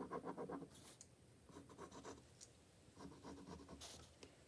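Pen scratching on paper as a drawing is sketched, faint, in a few short bursts of quick strokes.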